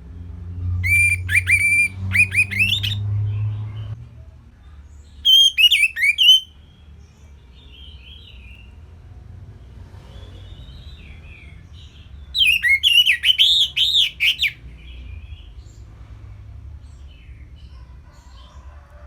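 Orange-headed thrush singing: three bursts of quick, rising notes, about a second in, around five seconds in and again around twelve seconds in, with faint softer twittering between them. A low steady hum runs underneath.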